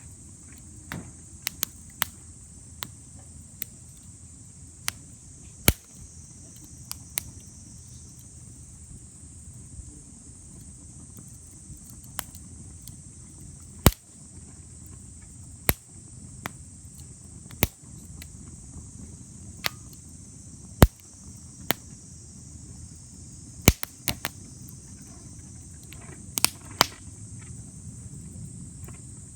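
Wood bonfire crackling, with sharp pops at irregular moments every second or two, a few of them loud. Beneath it runs a steady high chirring of crickets and other insects, and a low steady rumble.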